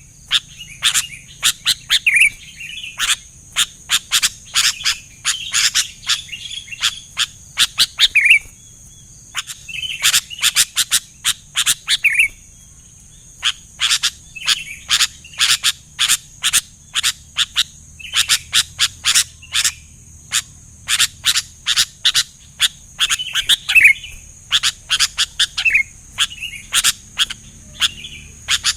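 Sooty-headed bulbul (kutilang) singing: rapid, sharp chirps mixed with short, bubbly whistled phrases, repeated again and again, over a faint steady high hiss.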